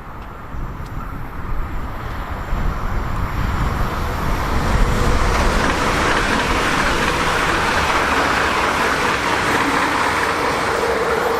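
A train running past on the line, its rolling noise building up over the first few seconds and then staying loud and steady.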